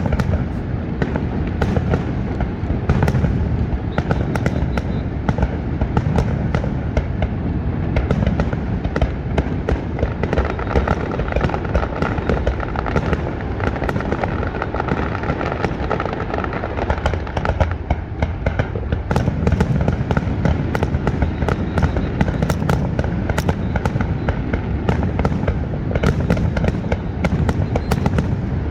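Fireworks finale: a dense, unbroken barrage of shell bursts and crackling, the booms running together into a continuous rumble.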